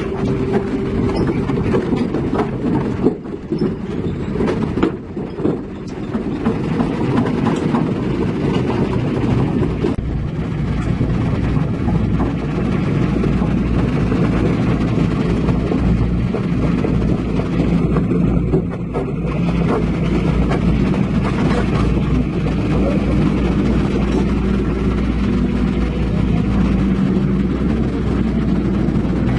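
Diesel engine of tracked heavy equipment running under load, with steel tracks clattering as the machine crawls. There is more clatter and knocking in the first few seconds, then a steadier run.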